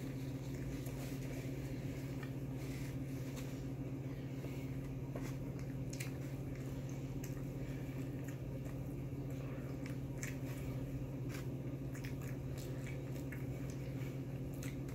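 Close-miked chewing and mouth sounds of someone eating fried chicken and bread: scattered soft clicks and squishes. A steady low hum runs underneath.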